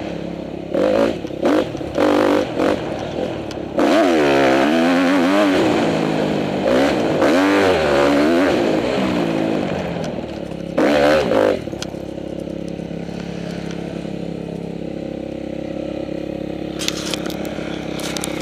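Honda CRF250R dirt bike's single-cylinder four-stroke engine revving, first in a few short blips, then in longer pulls that rise and fall in pitch. About twelve seconds in it drops to a steadier, lower running note, with a few sharp clicks near the end.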